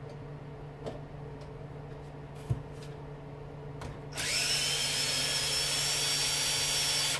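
A power drill fitted with a socket runs for about three seconds, starting about four seconds in, its whine rising quickly and then holding steady as it backs a bolt out of an electric lawnmower motor. Before it, only a few faint clicks over a low steady hum.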